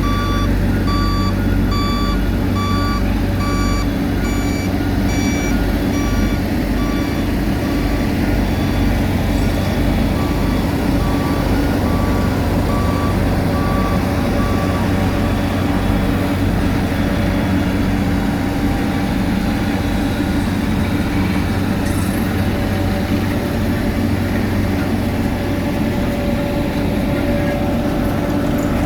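A heavy machine's reversing alarm beeping about twice a second and fading out about halfway through, over the steady drone of heavy diesel engines at work.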